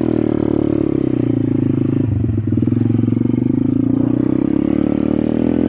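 Welsh Pit Bike 125cc's single-cylinder engine running as the bike is ridden in a low gear, its pitch rising and falling slightly with the throttle. There is a short rough patch about two seconds in.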